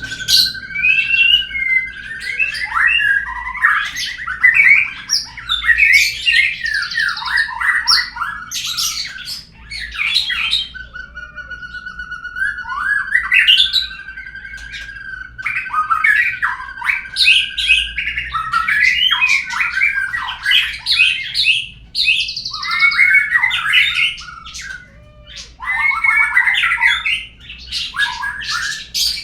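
Murai birdsong lure: rapid, varied whistles, chirps and squawky phrases, broken twice by a long steady whistle held for several seconds. It is a lure song played to get a caged murai to sing.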